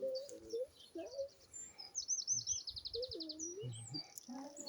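Small garden birds chirping and singing, with a quick, rapid trill about two seconds in; a few short low voice sounds are mixed in.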